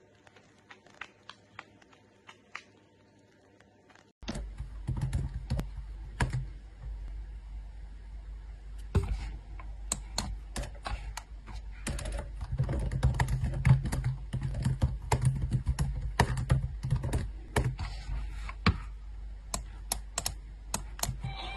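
Fingers typing on a laptop keyboard: an uneven run of key clicks over a low hum, starting about four seconds in after a stretch of faint, near-quiet sound.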